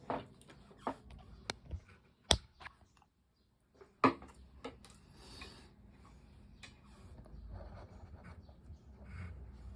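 Close-miked eating of fried chicken: crisp crunches and chewing mixed with sharp clicks and taps. The loudest snaps come about two and four seconds in, and the sound drops out briefly just after three seconds.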